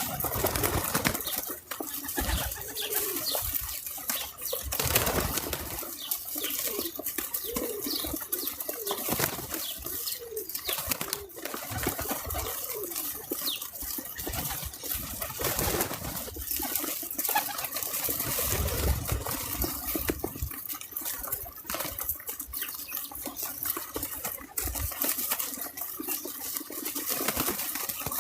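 Birds at a backyard feeder: low, cooing-type calls and wing flutters over a steady outdoor hiss, with scattered sharp clicks.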